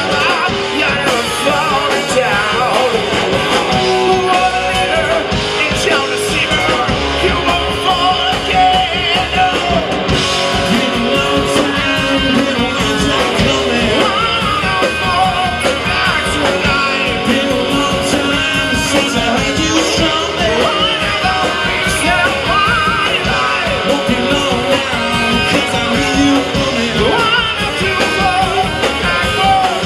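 Live rock band playing a song, with electric guitars and a singer over a steady beat.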